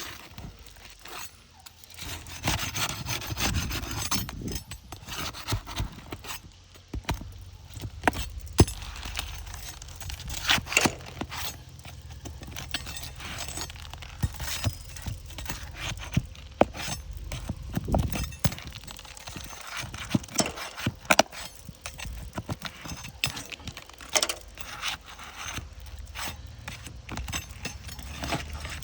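Metal pry bar scraping and working under asphalt roof shingles, with irregular sharp clicks and taps of the tool: loosening the sealed courses to free a shingle for repair.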